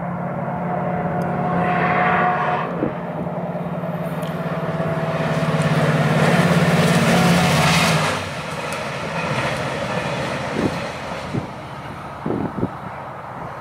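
New Mexico Rail Runner Express passenger train passing at speed: the diesel locomotive's engine drone and wheel-on-rail noise build to a peak about six to eight seconds in, then drop away suddenly, followed by scattered clicks.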